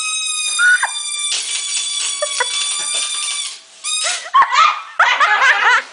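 Released toy helicopter balloon squealing as air rushes out through its neck: one loud, steady, high-pitched squeal lasting about three and a half seconds, with a brief squeak again at about four seconds. Children's excited voices follow near the end.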